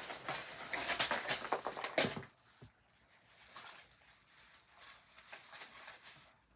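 Packaging being handled as a box is opened: busy rustling and crackling with sharp clicks for about two seconds, then fainter scattered rustling.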